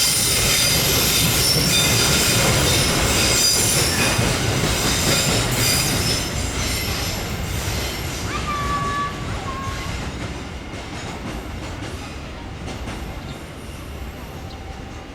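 A long train rolling past, its wheels squealing on the rails with several high, thin tones over a heavy rumble. The sound fades steadily over the second half as the train draws away.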